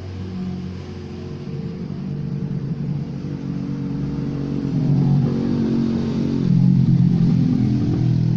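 A motor vehicle engine running, growing steadily louder over the stretch.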